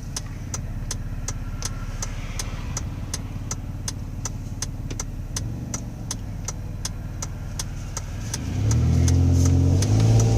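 2005 Ford Escape heard from inside the cabin, its engine running low and steady under the turn signal's ticking, about three ticks a second. About eight and a half seconds in, the engine revs up loudly with its pitch climbing as the pedal is floored, while the owner is trying to make the transmission skip gears.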